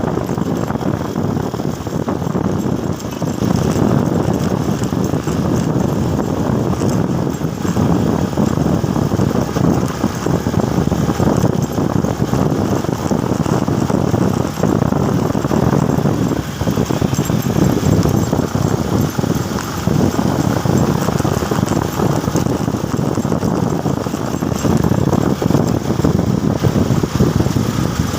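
Motorcycle being ridden on the road: its engine runs steadily under a continuous rush of road noise.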